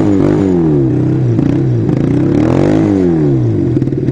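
Kawasaki 440 parallel-twin motorcycle engine, its revs falling, rising and falling again as the bike slows, then settling to a steady idle near the end. The engine is down on power, which the rider puts down to bad gas.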